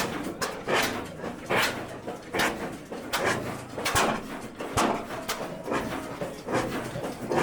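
Old engine running slowly, with a sharp exhaust pop about every 0.8 seconds.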